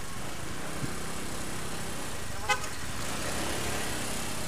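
Steady road-vehicle engine and traffic noise, with one short horn toot about two and a half seconds in.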